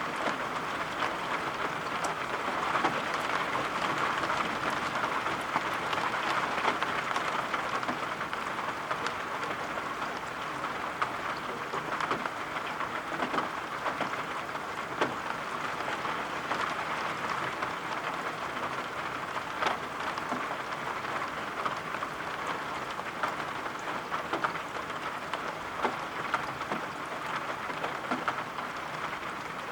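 Steady rain falling, an even hiss with scattered sharp taps of drops.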